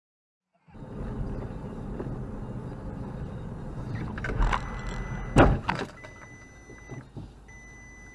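Car running with steady road noise, then a collision: a sharp crash about four and a half seconds in and a louder bang a second later, followed by two long, high electronic beeps.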